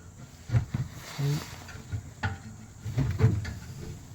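Scattered short knocks and rattles of the muffler and exhaust tip being pushed and worked into place, with a couple of brief low grunts.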